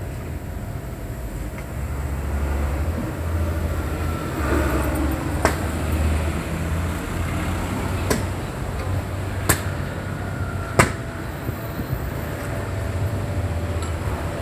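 Heavy diesel truck engine idling with a steady low rumble, and a few sharp clicks over it.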